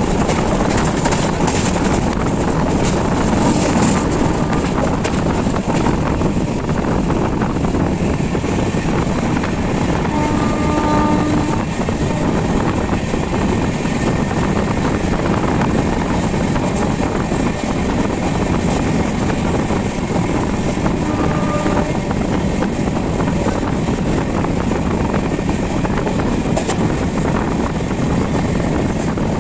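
Passenger train running steadily, heard loud from on board a coach: a continuous rumble and rush of the coach and wheels on the track. Two short pitched tones cut in briefly, around ten seconds in and again around twenty-one seconds in.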